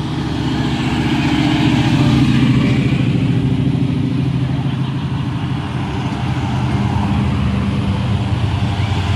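A car engine running, growing louder over the first two seconds and then holding steady.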